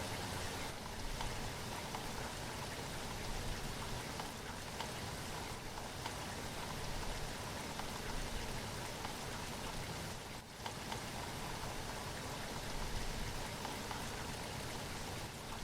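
Steady rain falling, a dense, even hiss of drops that dips briefly about ten seconds in.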